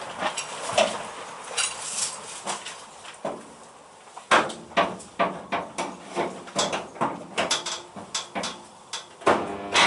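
Hammer striking metal: a few scattered knocks, then from about four seconds in a quick irregular run of blows, two or three a second, each with a short metallic ring.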